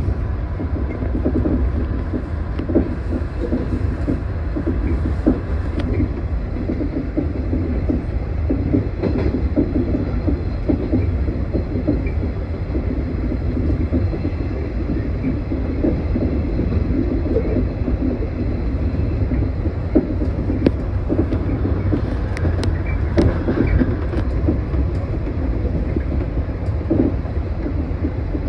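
A 115 series electric multiple unit running along the line, heard from inside the driver's cab. A steady low rumble of wheels and running gear, with occasional short clicks from the track.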